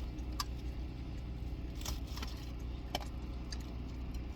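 A few light clicks and clinks of food being handled, such as takeout containers and utensils, over a steady low hum inside a car.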